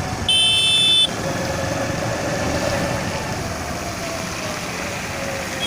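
Steady rumble of vehicle engines and rushing floodwater, with one short, high-pitched vehicle horn beep lasting under a second near the start.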